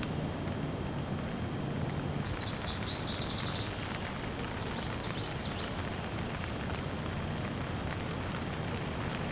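Steady rain, with a bird singing a rapid high trill about two seconds in and a few short chirps about five seconds in.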